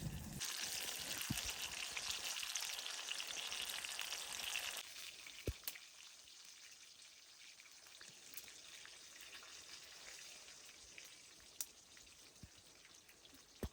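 A steady sizzling hiss, loud for about the first five seconds, then dropping to a fainter hiss with a few sharp clicks.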